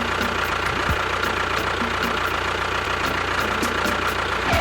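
A motor running steadily, with a constant whine over a low hum.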